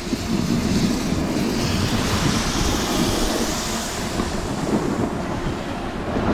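Steady wind noise buffeting the microphone while snowboarding down the slope, mixed with the rush of the board over hard-packed snow. A brighter hiss swells in the middle.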